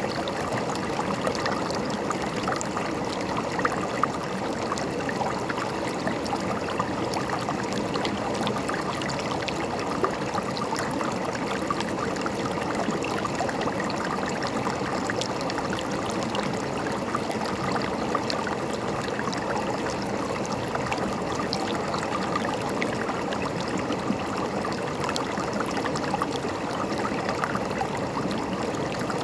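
River water flowing and babbling over rocks, a steady gurgling rush with small splashes throughout.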